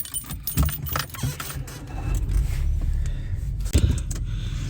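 Heavy rain pattering in irregular clicks over a steady low rumble, with one sharper knock near the end.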